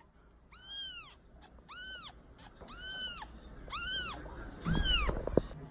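Week-old newborn kitten mewing: five high, thin cries about one a second, each rising and falling in pitch. A low rumble and a knock come near the end.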